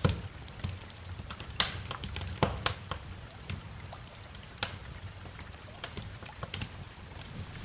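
Wood fire crackling: irregular sharp snaps and pops, about two a second, over a low steady rumble.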